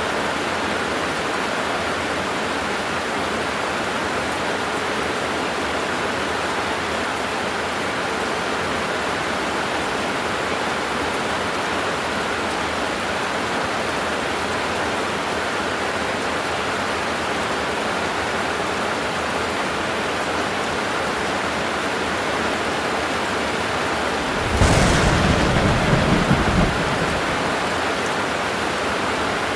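Heavy rain falling steadily, with a sudden clap of thunder about three-quarters of the way through that rumbles for about two seconds before dying away.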